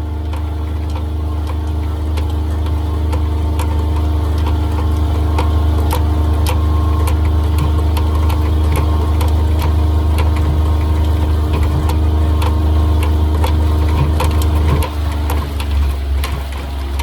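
Engine running steadily with a deep hum, with many sharp clicks and rattles over it; about fifteen seconds in, the engine note dips and wavers.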